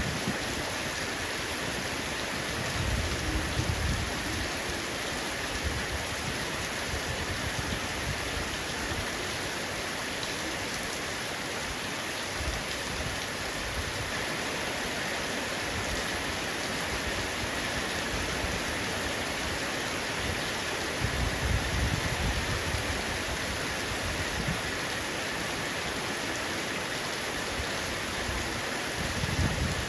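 Heavy rain falling steadily on a roof, a dense even patter. Low rumbles swell up briefly a few times, about three seconds in, around the middle-late part and near the end.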